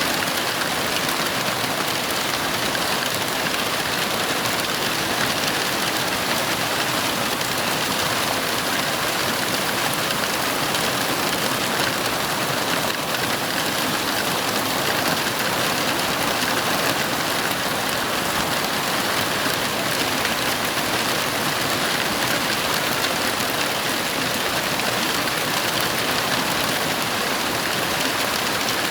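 Heavy rain falling steadily as an even, unbroken hiss with no thunder claps.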